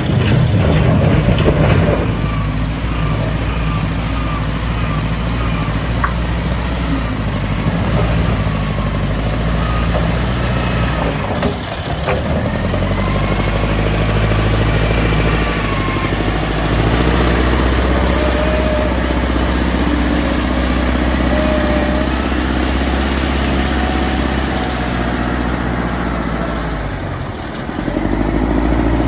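Heavy diesel machinery running steadily, with thin high squeals coming and going over the engine. The start is louder and clattering, and the engine sound dips briefly about twelve seconds in and again near the end.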